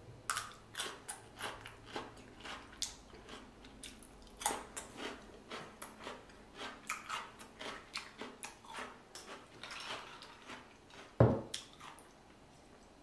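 Close-miked eating of a seafood boil: chewing with repeated wet smacks and clicks, several a second. One louder knock about eleven seconds in.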